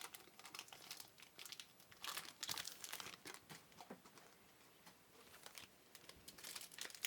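Faint crinkling and rustling of trading-card pack wrappers and cards being handled, in short irregular clusters, busiest about two to three seconds in, with a lull after.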